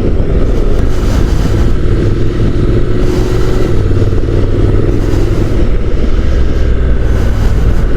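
Honda NC750 DCT's parallel-twin engine running steadily while riding, mixed with a heavy rush of wind.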